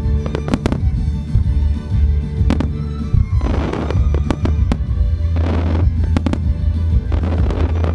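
Aerial fireworks bursting: several sharp reports and three spells of crackling, each under a second, over loud violin-led music that the display is set to.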